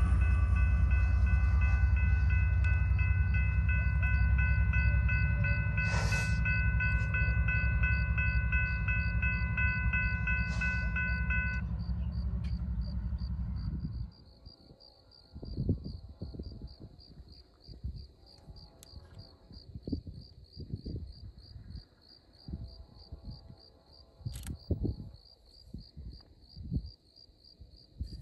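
Amtrak passenger train running past: a heavy low rumble with a stack of steady high tones over it that stop about 11 seconds in. The train noise cuts off suddenly about 14 seconds in, leaving crickets chirping steadily and scattered low bumps.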